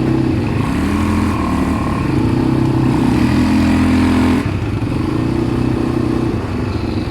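ATV engine running under throttle, its pitch rising about a second in, held, then easing off suddenly a little past the middle as the rider lets off the throttle.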